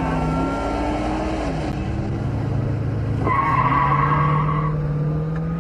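Car engine revving, its pitch rising and falling, with a tyre squeal lasting over a second about three seconds in.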